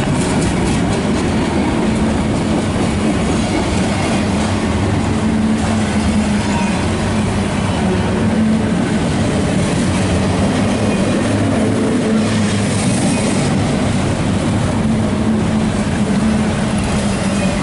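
Loaded autorack freight cars rolling past: a steady, loud rumble of steel wheels on the rails, with a brief rise in higher hissing noise about twelve seconds in.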